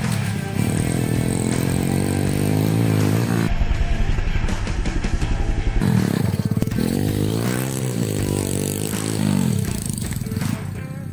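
Small motorcycle engine revving up and dropping back repeatedly. There are two spells of revving with a low, steady idle between them.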